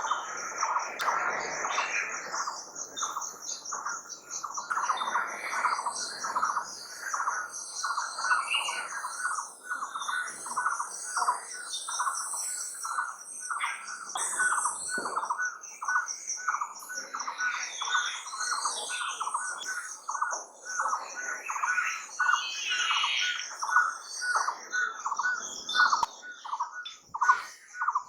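Outdoor nature ambience of birds calling: a short note repeated steadily about two to three times a second over a continuous high-pitched trill, with other scattered calls.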